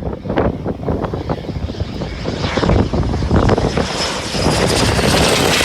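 BAE Hawk T1 jet's turbofan engine, a rushing roar that grows louder and brighter as the jet comes closer, with a high whine joining it in the second half.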